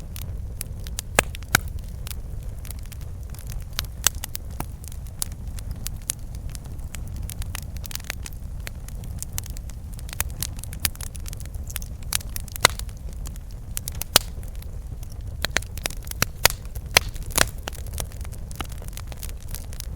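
Campfire burning: irregular sharp crackles and pops from the burning wood over a steady low rumble of the flames.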